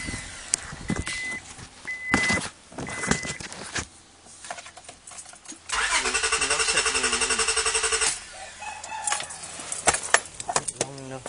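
2001 Honda Accord's engine cranking on the starter for about two seconds past the middle, an even pulsing churn that stops without the engine catching: a failed start. Before it come three short high beeps and a few clicks.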